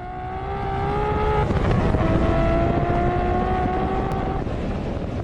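Car engine pulling hard under acceleration, its pitch climbing steadily, dropping at a gear change about a second and a half in, then climbing again, with wind rush.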